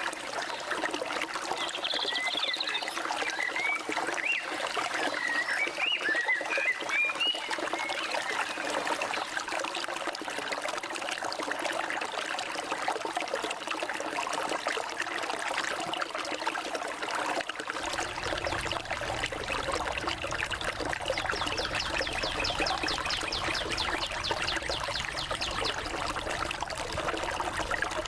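A forest stream running steadily, with birds chirping in short rising notes during the first few seconds. A low rumble comes in about two-thirds of the way through, and a fast, high trill runs through the last third.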